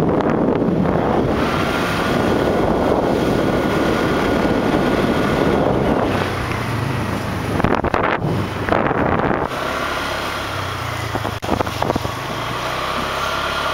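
Wind buffeting the microphone of a moving motorcycle, with the bike's engine running steadily underneath. The rushing wind is strongest in the first half; from about halfway through the engine hum stands out more.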